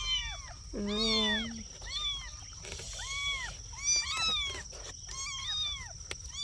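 Kittens mewing again and again: short, high-pitched mews that rise and fall, with one lower, longer cry about a second in.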